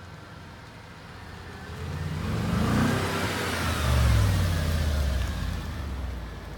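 Audi S5 accelerating past with its exhaust running loud. The sound builds about two seconds in, peaks with a rising-then-falling pitch as the car goes by, and fades away near the end.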